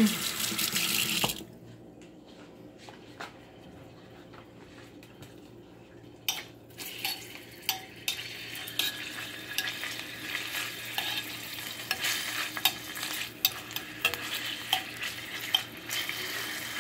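Water running in the sink, stopping about a second in. After a quiet few seconds, small pieces of pork fat start sizzling and frying in a stainless steel pan, with frequent clicks and scrapes of a utensil stirring them against the metal.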